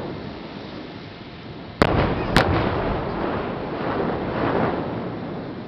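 Two sharp firework explosions about half a second apart, followed by a long rolling rumble that slowly dies away: set-piece fireworks exploding on a rocky shore.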